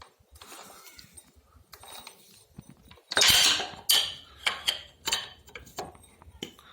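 Metal-on-metal clinks and taps of a spanner and parts at the fuel injection pump drive of a D-240 diesel engine, as the pump is turned to line up its timing marks. There is a louder half-second metallic rattle about three seconds in, followed by a few sharp knocks.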